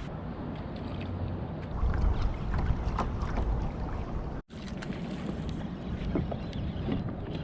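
Kayak moving across the water while trolling: water noise against the hull with a low rumble and scattered light knocks. The sound drops out for an instant about halfway through.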